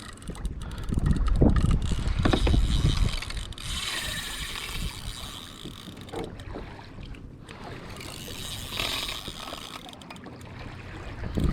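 Saltwater fishing reel being cranked during a fight with a fish, a fast mechanical clicking. Heavy low rumbles of wind and water against the kayak fill the first few seconds.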